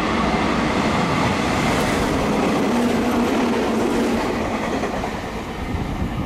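Meitetsu electric commuter train passing through a station at speed without stopping: a steady loud rush of wheels on rail, with a low hum for a second or so in the middle, easing off as the last car clears the platform near the end.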